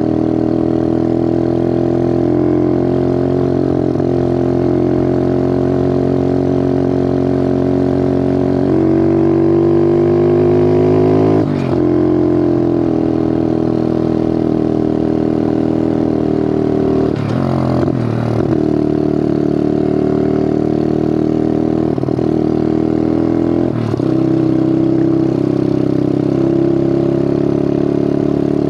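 Bigfoot 125 four-stroke pit bike engine running under way, loud and steady. Its note climbs, then briefly cuts and drops about four times.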